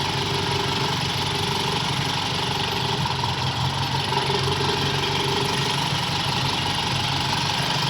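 Toyota Kijang carburettor petrol engine idling steadily, its distributor timing and contact points freshly adjusted.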